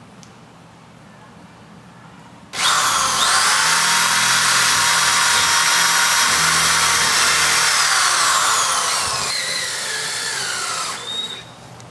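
Electric power drill boring an anchor hole: it starts suddenly about two and a half seconds in with a rising whine, runs steadily at full speed, then slows with a falling pitch and stops about a second before the end.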